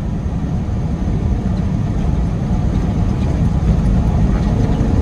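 Steady low drone of a long-hood semi-truck driving on the highway, heard inside the cab: diesel engine and road noise.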